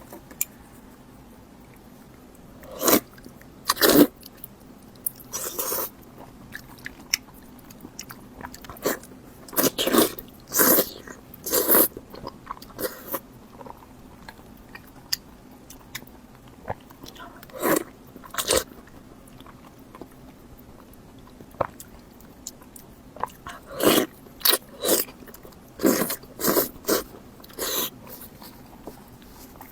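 Close-miked eating: a person biting and chewing food, with irregular bursts of crunchy or wet chewing sounds every few seconds and quiet gaps between.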